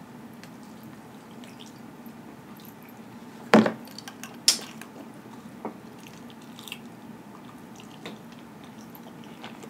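Close-miked eating sounds: wet mouth clicks and smacks while chewing, with two sharper clicks about three and a half and four and a half seconds in, over a low steady hum.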